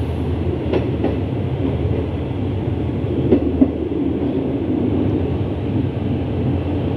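Passenger train running along the track: a steady rumble of the wheels on the rails, with a few sharp clicks.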